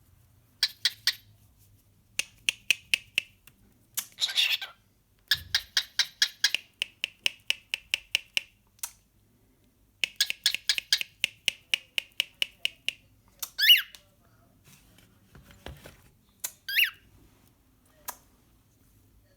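Trains of rapid clicks, about six a second, from a ratcheting crimp tool and a cockatiel mimicking its clicking. Two short warbling cockatiel whistles come in the second half.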